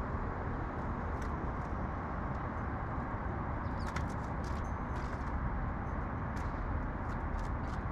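Steady low rumble of city traffic, with short high chirps and ticks from sparrows scattered over it, most of them bunched about four to five seconds in.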